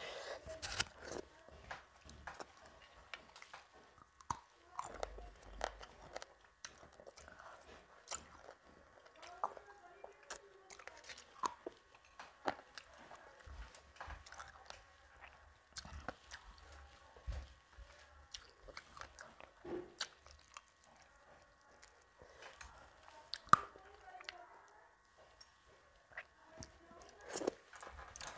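Close-up chewing and mouth sounds of someone eating rice and curry by hand: soft, irregular wet clicks and smacks, one sharper click about 23 seconds in.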